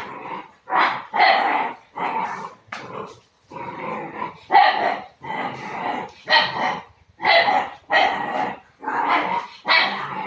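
Dogo Argentino puppy barking and growling over and over, about one or two short barks a second.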